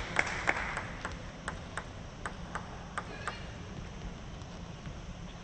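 Plastic table tennis ball bounced again and again, sharp clicks about three a second that grow fainter and stop after about three seconds.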